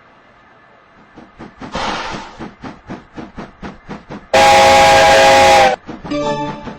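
LMS Black 5 steam locomotive getting under way: exhaust beats start about a second in and settle into a steady chuff of about four beats a second, with a burst of steam hiss. Near the middle it sounds a loud whistle lasting over a second, then a shorter, wavering blast follows.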